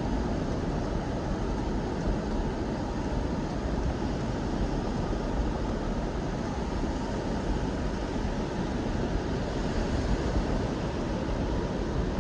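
Wind buffeting the microphone over a steady rush of surf, with no let-up.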